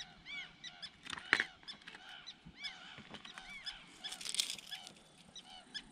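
A bird calling over and over in short, rising-and-falling notes, two or three a second, with a sharp click about a second and a half in and a brief rustle a little after four seconds.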